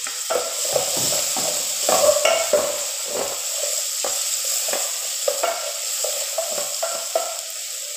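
Onions, tomatoes and ginger frying in hot oil in a metal pot, a steady sizzle, while a wooden spatula stirs and scrapes against the pot in quick irregular knocks, busiest about two seconds in.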